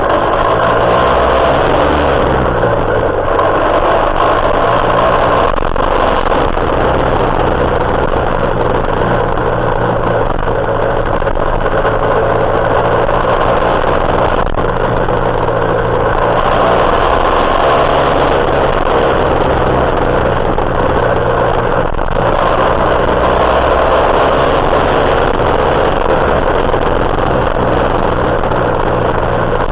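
Engine of a 1975 Suzuki T500, a two-stroke parallel twin, running steadily under way, its pitch shifting up and down about one to three seconds in.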